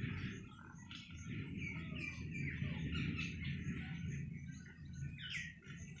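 Birds chirping and calling, many short notes, some falling in pitch, over a steady low background rumble.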